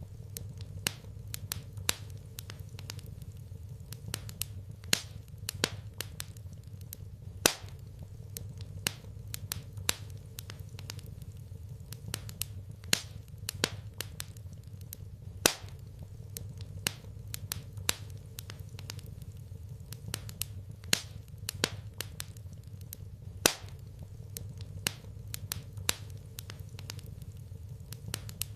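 Wood fire crackling in a fireplace: irregular sharp pops and snaps, a few each second with some much louder, over a steady low hum.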